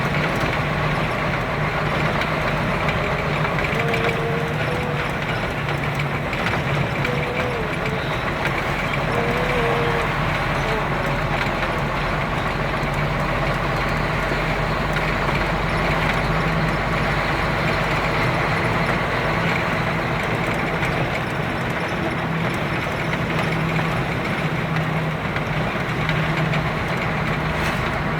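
Vehicle engines running steadily with a constant low hum, as vehicles drive off a ferry's car deck.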